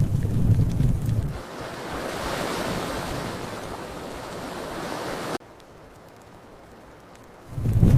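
Crackling fireplace fire with a low rumble. About a second and a half in it gives way to a steady hiss that cuts off suddenly, leaving a faint quiet stretch, and the fire's rumble returns near the end.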